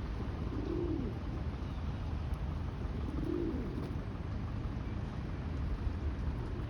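Pigeon cooing: two low coos about two and a half seconds apart, each rising and then falling in pitch, over a steady low background rumble.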